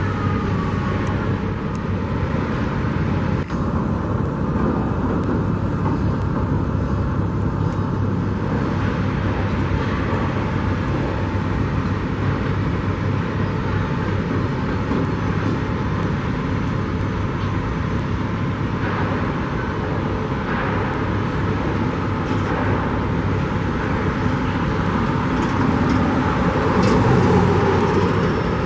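Steady road traffic noise with a low hum, swelling near the end as a vehicle passes.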